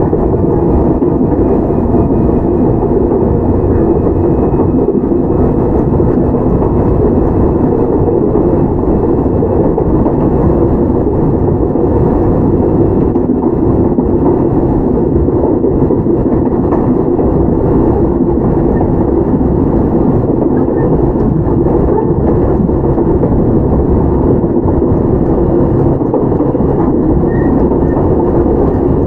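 Interior running sound of a Toyama Chiho Railway 17480 series electric train, a former Tokyu 8090 series car, rolling steadily along the track. A constant rumble of wheels on rail fills the car, with faint steady tones above it.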